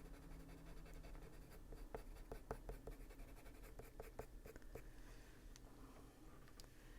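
Faint scratching of a Caran d'Ache Luminance coloured pencil shading on paper, in a run of short strokes that is busiest in the middle and thins out near the end.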